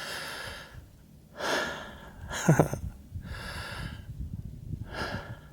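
A man breathing hard, out of breath from hiking: loud breaths in and out about every second and a half, with a short voiced grunt about halfway through.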